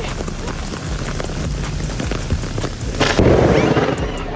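Steady rain falling, with a sudden loud clap of thunder about three seconds in that rumbles for close to a second.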